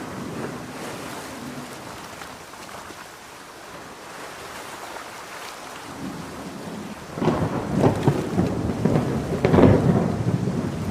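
Steady heavy rain, then a rolling thunder rumble breaks in about seven seconds in and grows to its loudest near the end.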